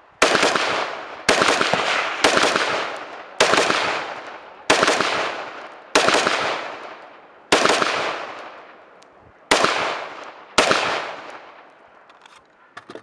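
Rifle fired nine times at a slow, uneven pace, one to two seconds between shots. Each shot is a sharp crack followed by a long echoing tail. A few faint clicks come near the end.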